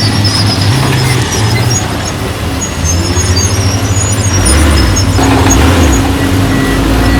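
Heavy diesel machinery running: a steady low engine drone that grows heavier about four seconds in, with scattered short high squeaks over it.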